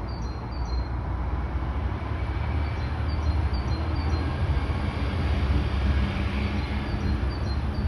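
A bird repeats short high chirps, a few a second, in bouts near the start, in the middle and near the end. Under them runs a louder, steady low rumble with a noisy hiss.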